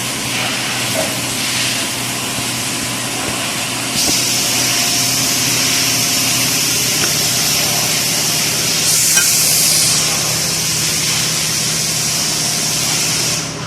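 A steady hiss over a low, even mechanical hum, with a short sharper hiss about nine seconds in.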